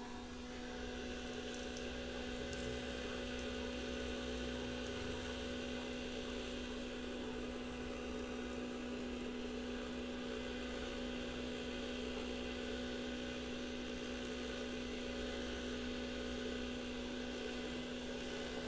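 Small electric motor and fan of a homemade recycled-material vacuum cleaner running steadily with a constant hum and whir, coming up to speed in the first second.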